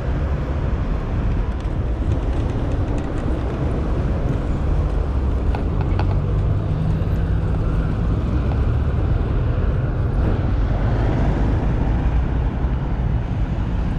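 Bicycle rolling over cobblestone pavement: a steady low rumble from the tyres on the stones, with a few sharp clicks and rattles around the middle.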